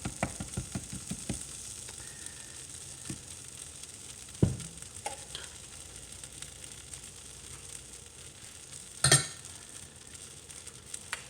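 Vegetables in butter and Alfredo sauce sizzling in a pan with a steady hiss. A run of light clicks comes in the first second and a half, a knock about four and a half seconds in, and a sharp clatter about nine seconds in.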